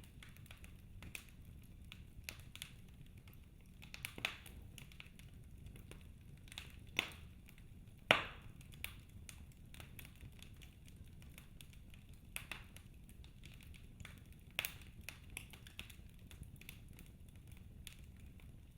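Wood fire burning in a fireplace, crackling with irregular sharp pops over a faint low rumble; the loudest pop comes about eight seconds in.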